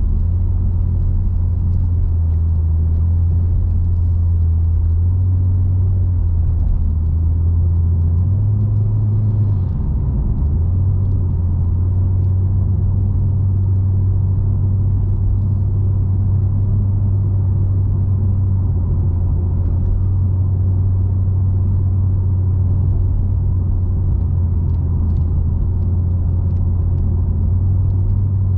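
Nissan Skyline Coupe (V36) on the move: a steady low drone from its V6 engine and tyres, with road noise. The drone rises slightly about eight seconds in and dips briefly around ten seconds.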